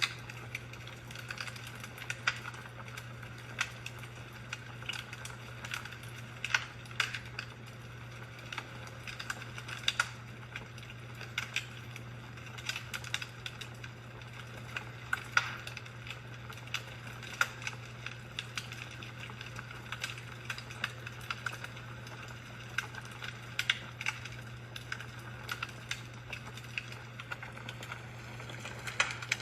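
Fireplace fire crackling, with irregular sharp pops and snaps, several a second, over a steady low hum.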